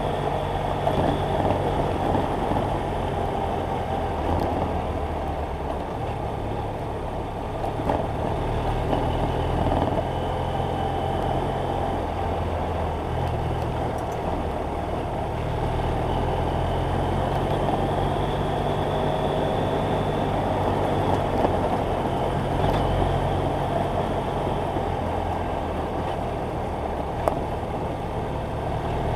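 BMW F800GS Adventure's parallel-twin engine running while riding, its pitch shifting up and down several times as the revs change, over a steady rush of wind noise.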